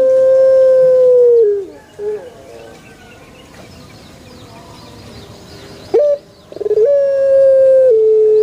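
Male Barbary dove (burung puter) cooing: a long, steady coo that drops in pitch at its end, then a short rising note about six seconds in and a second long coo that steps down in pitch near the end. Faint high twittering of small birds is audible between the coos.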